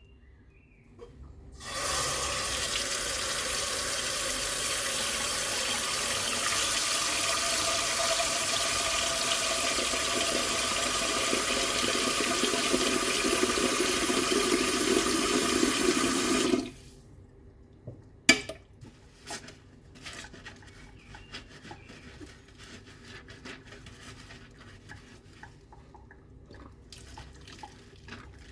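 Kitchen tap running into the sink for about fifteen seconds, then shut off abruptly. A single sharp clink follows, and then faint small clatters of dishes being handled.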